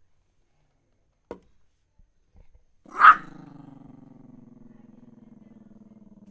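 A dog gives one loud bark about three seconds in and goes straight into a low, rough, continuous growl. A brief faint sound comes about a second in.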